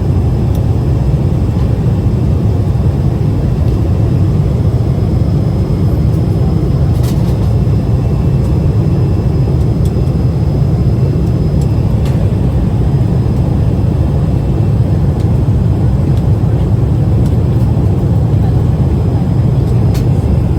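Jet airliner cabin noise: a steady low rumble of the engines and rushing air, unchanging throughout, with a few faint clicks.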